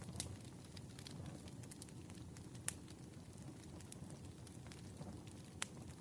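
Campfire burning with a low steady rumble and scattered small crackles, broken by three sharper pops: one just after the start, one near the middle and one near the end.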